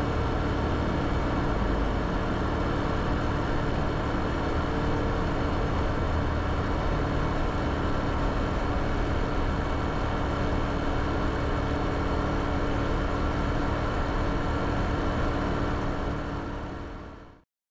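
Honda Super Cub 110's single-cylinder four-stroke engine running at a steady speed on the road, with a heavy low rumble of wind noise. The sound fades out near the end.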